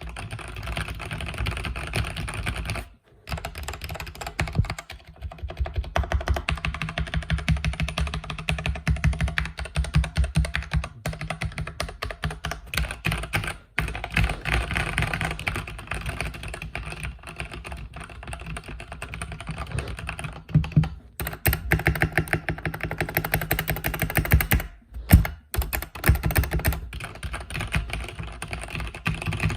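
Mechanical keyboard with red linear switches being typed on fast, a steady stream of keystroke clacks broken by a few short pauses.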